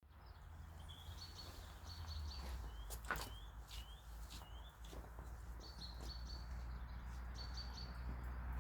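Songbirds chirping outdoors: short repeated phrases of high chirps and quick rising notes, with a single sharp click about three seconds in, over a steady low rumble.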